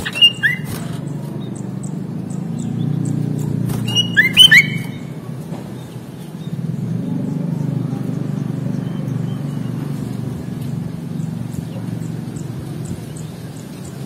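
Sooty-headed bulbul calling in two short bursts of sharp, gliding notes, one at the start and one about four seconds in, over a steady low rumble that swells and fades twice.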